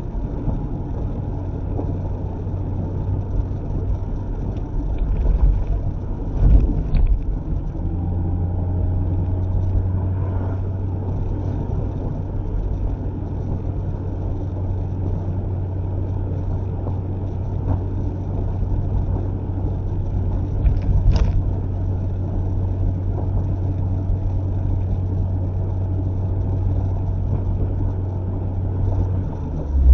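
Mazda MX-5 ND's four-cylinder engine and tyre noise while driving, heard from inside the car. A steady low engine drone holds from about a quarter of the way in until just before the end, with a few short bumps along the way.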